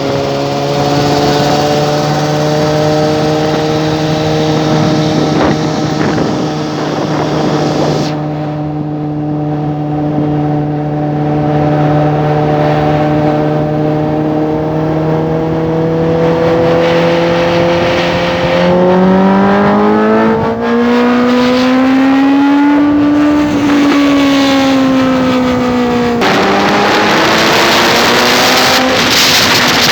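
Suzuki GSX-S750's inline-four engine running through an aftermarket loud exhaust while riding, holding a steady note at first. Well past halfway the note climbs as it revs up, then eases off and drops sharply near the end, with wind rush throughout.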